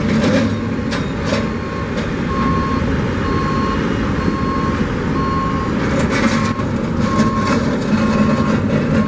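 A construction vehicle's reversing alarm beeps steadily, a little faster than once a second, over the low rumble of its diesel engine. The beeping starts about two seconds in, and a few knocks sound alongside it.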